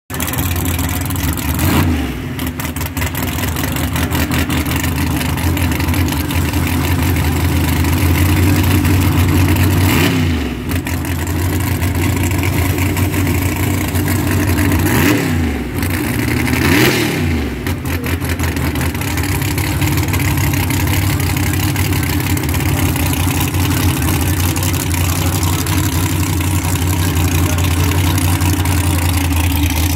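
Car engine running steadily throughout, its pitch dipping briefly and coming back up four times.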